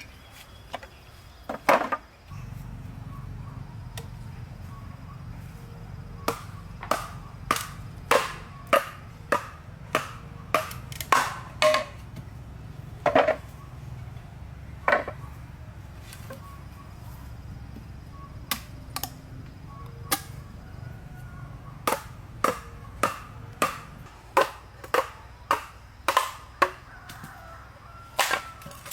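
Repeated chopping strikes of a blade into wood, irregular at about one or two a second with a few pauses, over a steady low hum.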